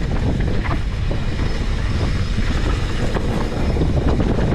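Wind buffeting the microphone, a steady low rumble, with a few faint clicks and knocks.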